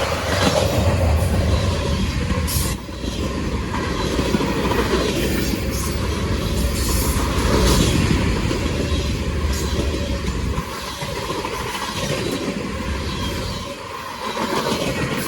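CSX freight train rolling past close by: a loud, steady rumble of wheels on rail from the passing cars, dipping briefly a few times.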